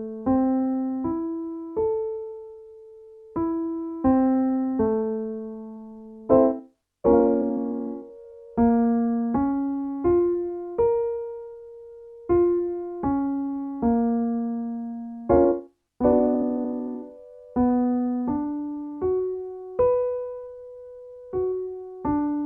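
Piano playing a vocal warmup pattern: a chord, then single notes climbing a minor arpeggio to a held top note. The pattern repeats several times, shifting key between rounds.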